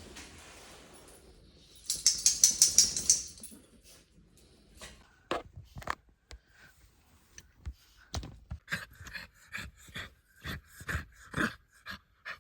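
Dry dog food rattling as it is poured or shaken into a bowl, a fast loud patter of small hard pieces for about a second and a half. It is followed by a run of light clicks and taps that come more often near the end.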